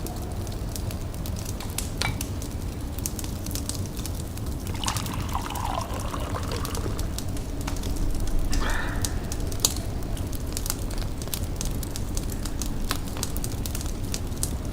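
Tea poured from a pot into a cup for about two seconds, starting about five seconds in, with a shorter pour soon after, over a wood fire crackling with scattered sharp pops.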